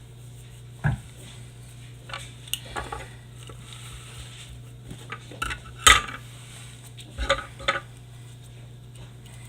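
Knife and hands working at a firework mortar shell's layered casing: irregular clicks, knocks and short scrapes, the loudest knock about six seconds in, over a steady low hum.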